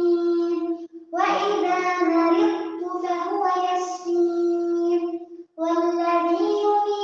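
A young girl's voice reciting the Quran in a melodic, drawn-out tajweed style, holding long steady notes. There are two short breaks for breath, about a second in and at about five and a half seconds.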